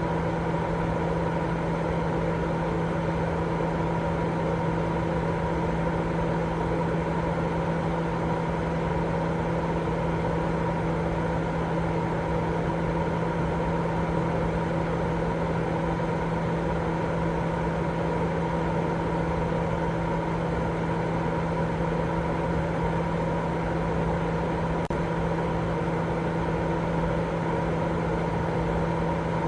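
Continuous baby-sleep white noise: an even, unchanging hiss with a steady low hum running under it.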